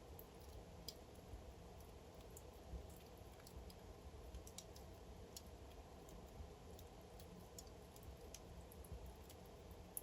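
Wood fire burning in a fireplace, crackling faintly: scattered small pops and snaps, several a second, over a steady low hum of the burning logs.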